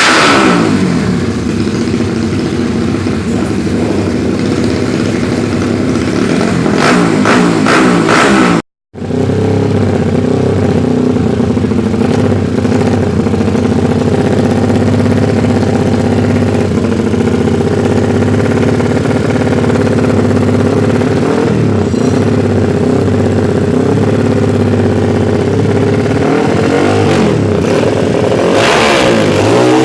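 Yamaha Scorpio Z's single-cylinder four-stroke engine running through an HNR racing exhaust. It is revved a few times, dropping back about a second in, blipping about seven seconds in and rising again near the end. In between it holds a steady, even idle. The sound cuts out for a moment about nine seconds in.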